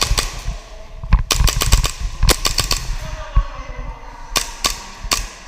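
Airsoft pistols firing: sharp cracks in quick strings of several shots, with short pauses between the strings.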